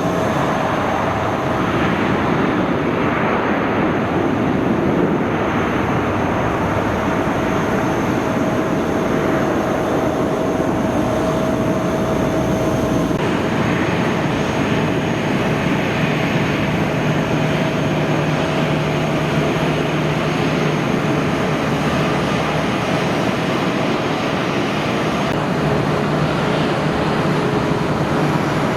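Airliner engines running, a steady loud rush of noise with a constant tone running through it. The sound shifts a little about 13 seconds in, and a low hum joins it soon after.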